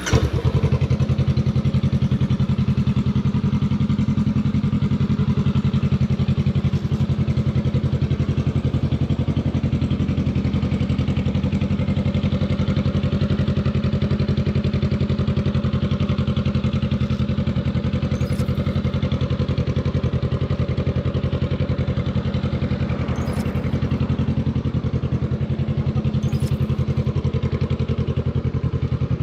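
Honda Rebel 500 motorcycle engine running through its raw exhaust at a steady, even pace, the exhaust pulses unchanging throughout with no revving.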